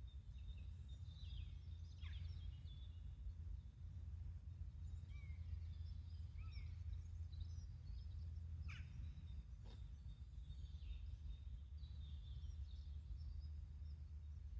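Quiet garden ambience: a steady low rumble with scattered short, high bird chirps. There is one faint click about ten seconds in.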